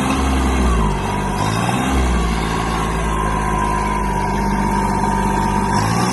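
Compact diesel tractor engine running. Its pitch drops and comes back up twice in the first couple of seconds, then holds steady.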